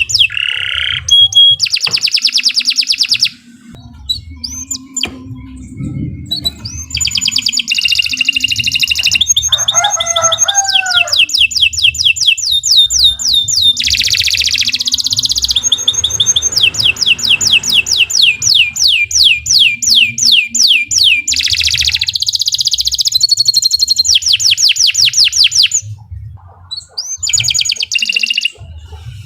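Domestic canary singing long phrases of rapid trills, each a quick run of repeated high notes, with a brief pause a few seconds in.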